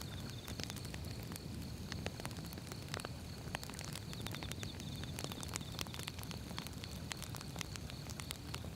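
Firewood burning, crackling and popping irregularly over the low, steady rumble of the flames.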